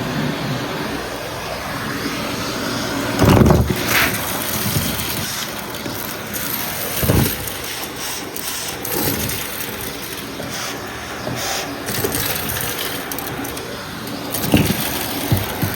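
Vacuum cleaner running steadily, with a few louder knocks and bumps as it is worked.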